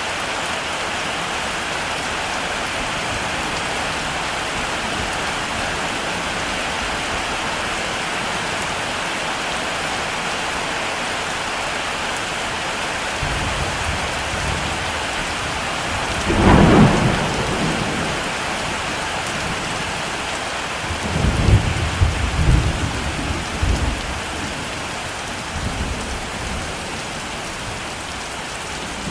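Heavy rain falling steadily on a rural landscape, with a thunderclap about halfway through followed by several rolls of thunder that rumble and die away over the next several seconds.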